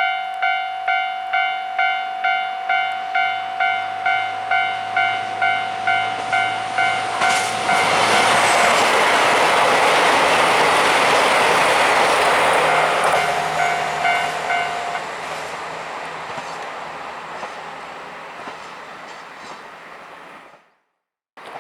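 Japanese level-crossing alarm ringing about two strikes a second as a KiHa 261 series diesel express train passes over the crossing. The train's rush is loudest for about five seconds, then fades away, and the alarm stops partway through the fade. The sound cuts out briefly near the end.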